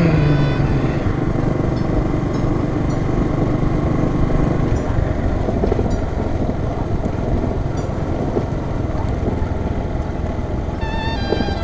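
Bajaj Boxer BM 150's single-cylinder four-stroke engine running steadily as the motorcycle is ridden, with rumbling road and wind noise. Music comes back in near the end.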